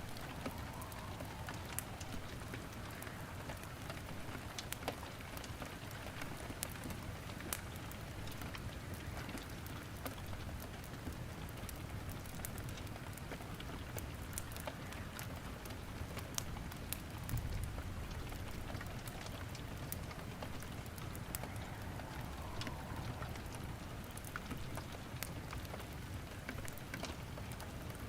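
Steady rain falling, mixed with wood fire crackling in a fireplace: frequent sharp pops and snaps scattered over the even hiss of the rain, with a brief low rumble about two-thirds of the way through.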